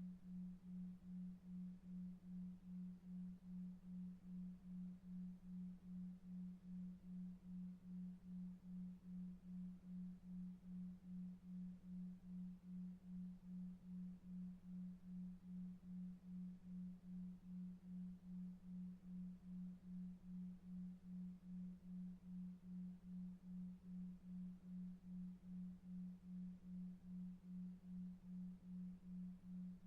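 A soft, low electronic tone pulsing evenly about two to three times a second, a 2.5 Hz "delta wave" sleep tone, over faint brown noise.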